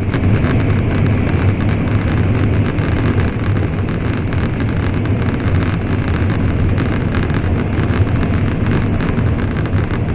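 Steady running noise inside an N700 series Shinkansen car at speed: a constant low rumble with a fine rapid rattle over it.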